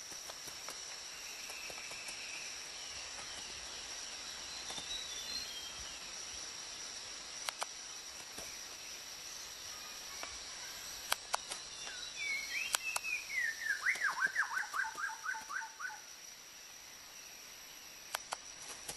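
Rainforest ambience: a steady high insect drone with scattered sharp clicks. About twelve seconds in, a bird calls in a rapid run of short falling notes lasting about four seconds.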